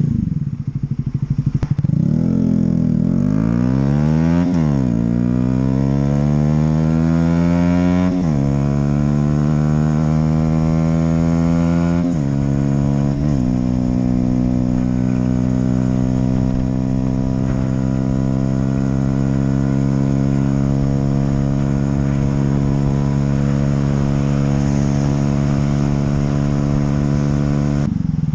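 Honda CB125R's single-cylinder 125 cc four-stroke engine accelerating up through the gears, its pitch rising and dropping at gear changes about four, eight, twelve and thirteen seconds in, then holding steady revs at a cruise.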